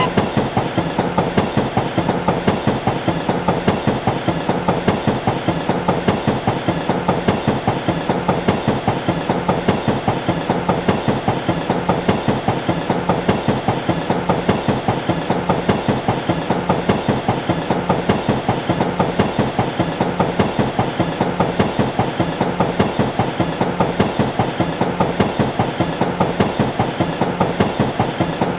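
Train wheels clacking over rail joints in a steady clickety-clack, about four clacks a second, over a continuous rumble.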